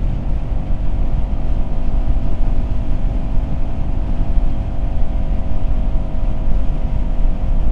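Kawasaki Z400 parallel-twin engine running at a steady cruise, its pitch holding level, under heavy wind rush on the microphone.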